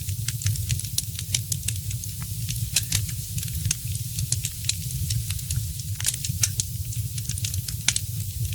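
Wood fire crackling: frequent irregular snaps and pops, a few louder ones, over a steady low rumble.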